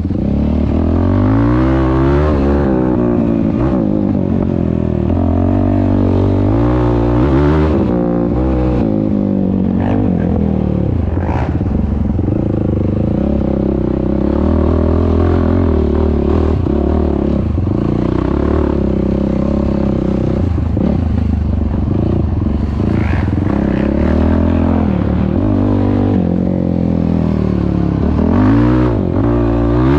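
Yamaha YFZ450R quad's single-cylinder four-stroke engine running through a Rossier R5 aftermarket exhaust, revving up and down repeatedly, then holding a fairly steady speed for a stretch in the middle before revving again.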